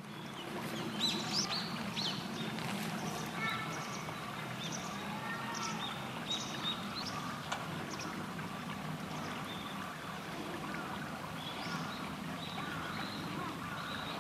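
River water running steadily, with many short, high-pitched bird calls scattered over it.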